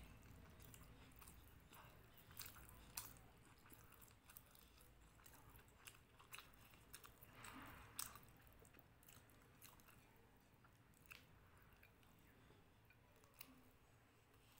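Faint close-up chewing of a mouthful of rice and curry, with scattered soft mouth clicks. About halfway through there is a brief soft squishing as fingers gather rice on the plate.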